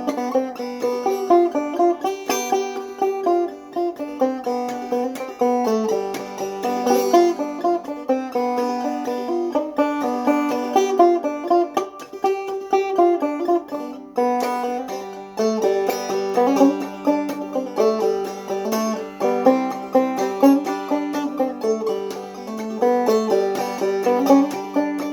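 Deering open-back banjo with a 20-hole flat-head tone ring played clawhammer style. The tune runs as an unsung instrumental passage of quick plucked notes over a steady held low note.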